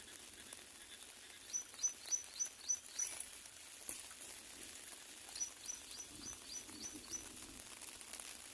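A bird calling: two runs of short, high, repeated chirps, six or seven notes each at about three to four a second, over a steady faint high hiss.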